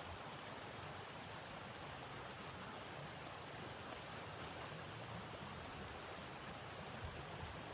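A steady, even rushing noise with a faint, uneven low rumble beneath it.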